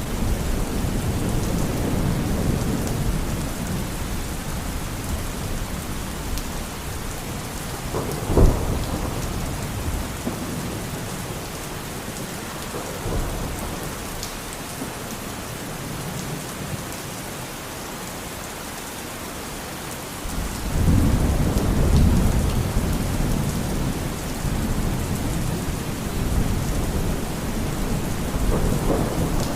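Steady rain with thunder: a low rumble dying away over the first few seconds, a sharp crack about eight seconds in, and a long low rumble building about twenty seconds in.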